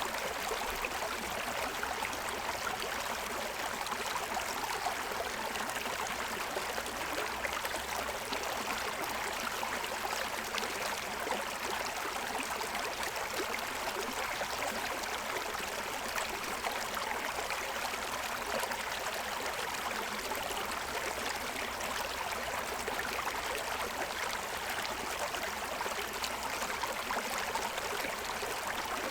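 Shallow forest stream running over the stones of its bed, a steady, even rush of water.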